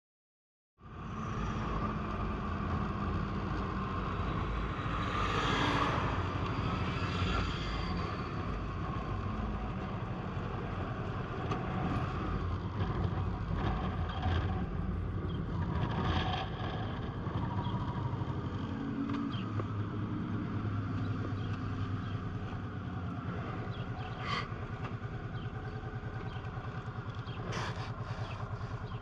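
Honda PC800 motorcycle's V-twin engine running, starting about a second in, its pitch rising and falling a few times as the speed changes. A few short clicks are heard over it.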